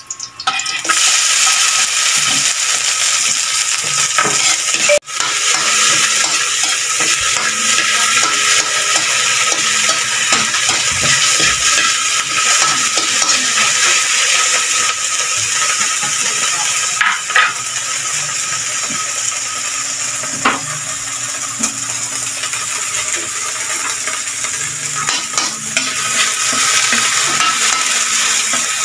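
Chopped green leaves sizzling in hot oil in a steel wok while a metal ladle stirs them. The sizzle starts about a second in as the leaves hit the oil, with a few sharp clicks of the ladle against the pan.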